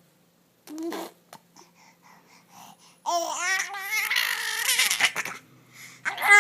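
A baby's Wookiee-style vocal noises. There is a short sound about a second in, then a loud drawn-out babbling cry with sliding pitch from about three to five seconds in, and another starts at the end.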